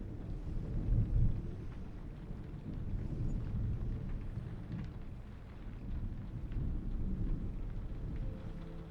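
Low rolling thunder over steady rain, the rumble swelling about a second in and again a few seconds later. Soft sustained music tones come in near the end.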